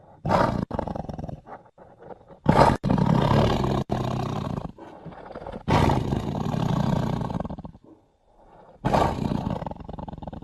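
Film sound effects of a snarling sabre-toothed cat (Smilodon): four loud, rough roars, each about two seconds long and starting suddenly, with abrupt cuts between them.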